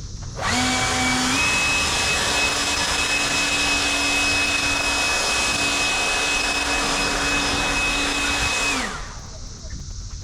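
Leaf blower switched on, running at a steady whine that steps up a little in pitch after starting, then spinning down with falling pitch near the end, typically used to blow loose sand off the paver surface.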